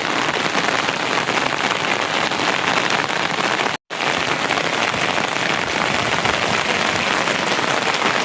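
Steady rain falling, an even, dense patter that cuts out for an instant just before four seconds in.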